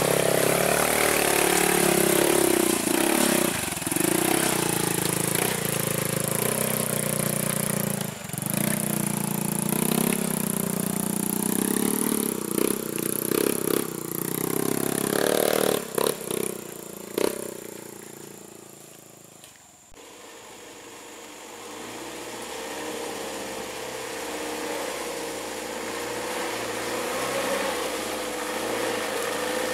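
A heavy truck engine running hard, its pitch rising and falling with short breaks, then fading away. Near the middle it is cut to a quieter, steadier engine drone.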